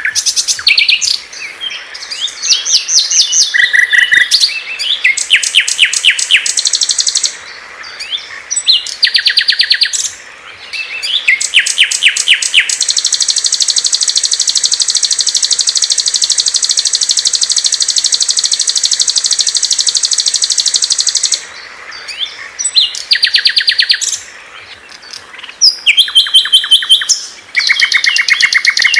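Small songbirds singing loud, high-pitched phrases of rapid trills and chirps with short pauses between them. In the middle, one unbroken fast trill is held for about eight seconds.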